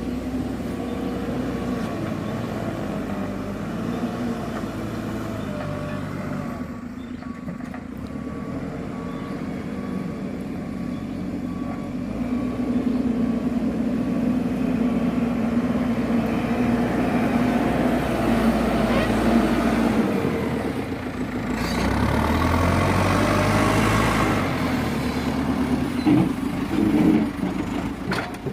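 Diesel dump truck engine running, growing louder as it revs up about halfway through and again near the end. A reversing alarm beeps evenly through the first half.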